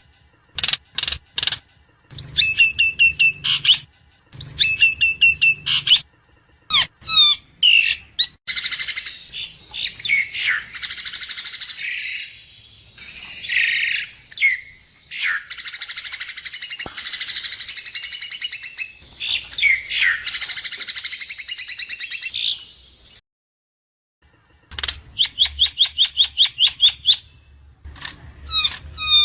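Javan myna (jalak kebo) song: fast runs of sharp repeated notes alternating with long stretches of harsh, raspy chattering, broken by a short pause a little past the middle.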